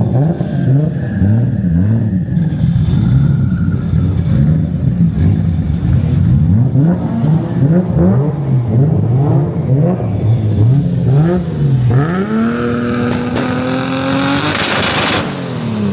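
Turbocharged car engine revved repeatedly in quick blips, then held at high revs for a couple of seconds, ending in a burst of hiss as the revs drop.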